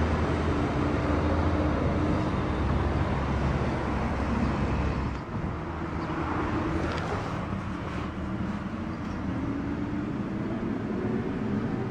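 Traffic and vehicle engine noise: a steady low rumble that eases off about five seconds in, then a lighter hum with faint, slowly rising engine tones.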